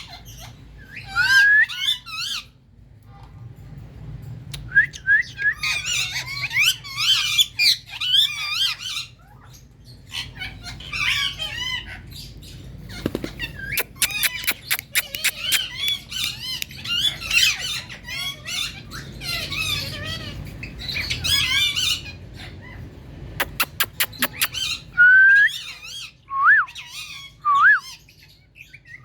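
Pet parakeets chattering and squawking in bursts of squealing, wavering calls, with a few quick runs of sharp clicks and some short whistled glides near the end.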